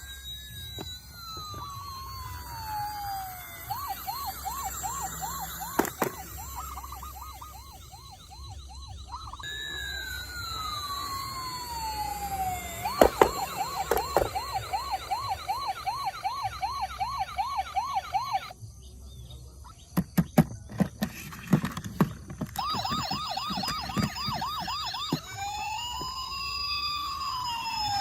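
Electronic toy emergency-vehicle sirens: a slow falling wail alternating with a fast warbling yelp, repeated several times. Sharp clicks or knocks sound during a break in the siren about twenty seconds in, and several siren tones overlap near the end.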